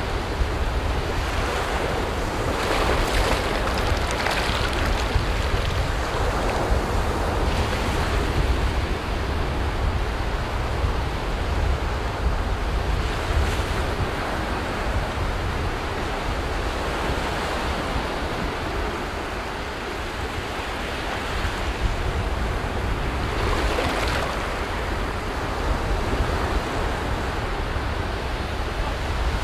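Sea surf: waves breaking and washing on a beach in a continuous wash that swells a few times. Wind rumbles on the microphone underneath.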